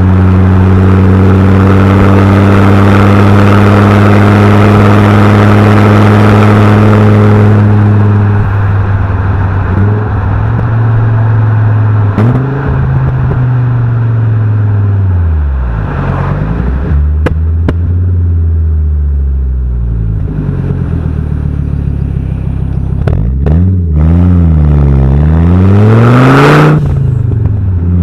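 Fiat Coupé 20V Turbo's turbocharged five-cylinder engine and exhaust under way. It drones steadily under load with a hiss for the first few seconds, then comes off throttle, and the pitch falls and wanders down to low revs through the middle. Near the end it revs up sharply, drops back and settles into a steady drone.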